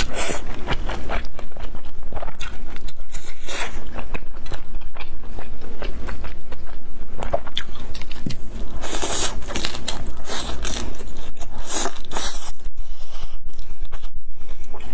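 Close-miked biting and chewing of a pan-fried Chinese chive pocket (jiucai hezi): a steady run of quick, irregular chewing sounds with louder bites every few seconds.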